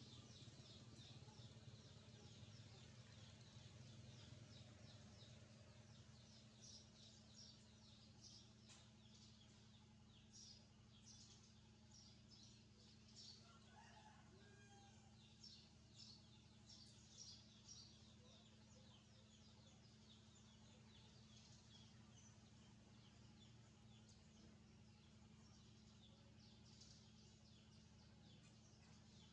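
Faint, rapid high chirps from small birds, coming in short runs throughout and thickest in the middle, over a low steady hum.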